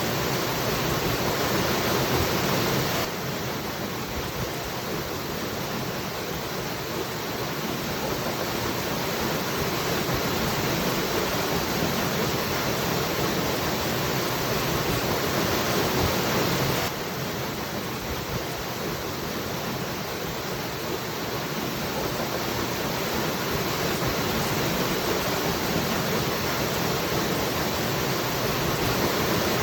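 Waterfall rushing steadily, a dense even roar of falling water. Its level drops slightly and abruptly about three seconds in and comes back up just as suddenly about seventeen seconds in.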